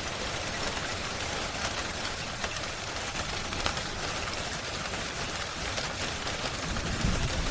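Steady rain mixed with the scattered sharp crackles of a wood fire. A low rumble swells near the end.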